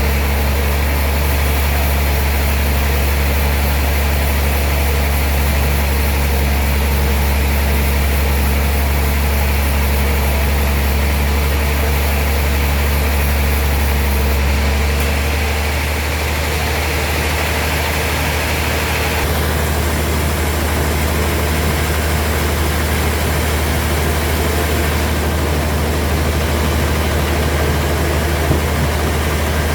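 Heavy sawmill machinery running steadily with a deep hum. The tone shifts slightly about halfway through, and again a few seconds later.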